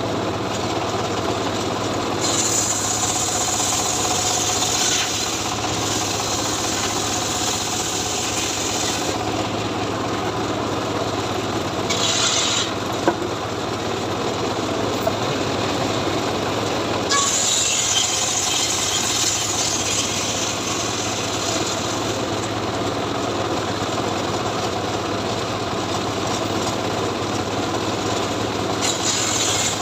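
Homemade engine-driven log saw (srekel) running steadily while cutting teak. The engine drone is constant, and a loud hissing rasp of the blade in the wood comes and goes: from about 2 to 9 seconds in, briefly around 12 seconds, from about 17 to 22 seconds, and again at the very end.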